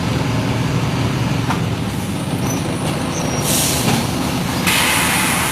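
Mercedes-Benz OF-1721 bus diesel engine running steadily, with a short burst of compressed-air hiss about three and a half seconds in and a longer, louder one near the end.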